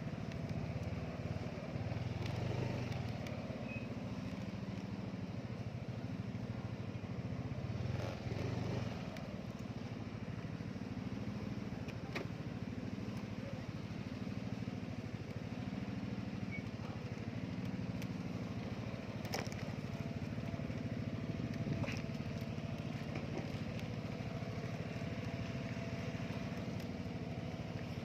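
A small engine running steadily at a constant speed, with a few faint clicks.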